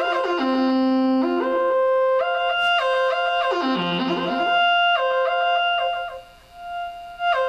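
Moog Theremini playing a melody through a small Fender Frontman G10 guitar amp: held notes that step cleanly from pitch to pitch. The sound dips briefly about six seconds in, and the next phrase starts just before the end.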